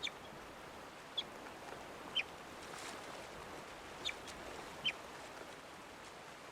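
A young North American river otter giving five short, high chirps at uneven intervals over the steady rush of river water. These are the contact calls of a pup separated from its family.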